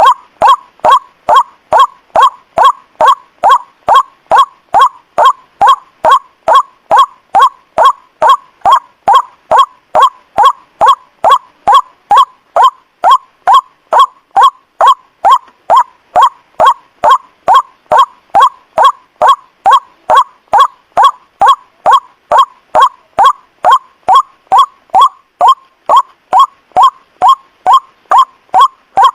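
White-breasted waterhen (ruak-ruak) call repeated as a bird-trapping lure: loud, short notes in a steady, unbroken series of about two a second.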